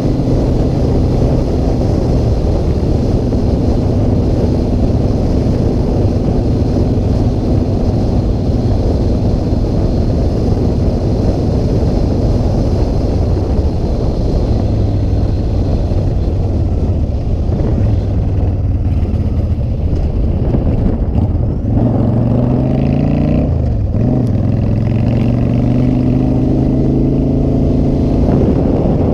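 Motorcycle engine running steadily under way. About two-thirds of the way through its note dips sharply and then climbs again as the bike eases off and accelerates.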